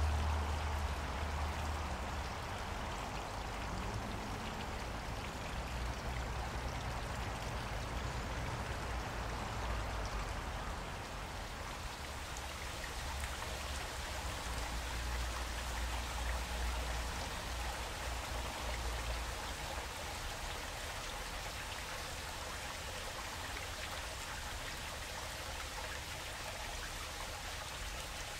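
Flowing water splashing steadily over a stream's rocks, a continuous rushing and spattering. A low rumble underneath fades out about two-thirds of the way in.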